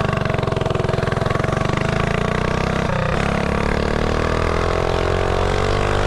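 Mini bike engine running at a steady pace, then about halfway through it drops briefly and climbs steadily in pitch as the bike speeds up.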